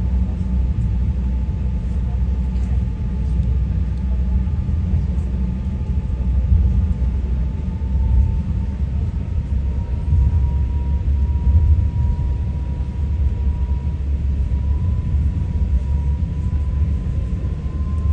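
High-speed ferry's engines running under way, a steady deep rumble with a faint whine that slowly rises a little in pitch.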